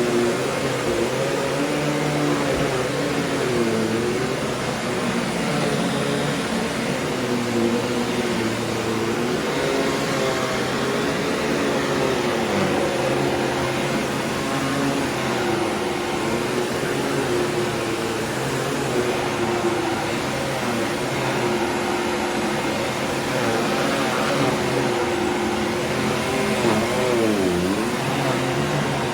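Simplicity 7 Series bagged upright vacuum cleaner running steadily, its motor pitch wavering up and down.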